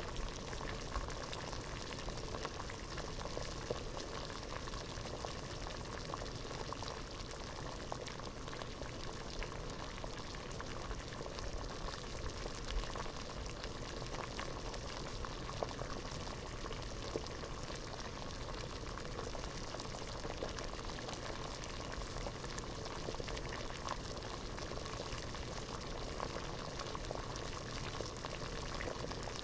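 Water at a rolling boil in a pot: a steady bubbling with many small pops.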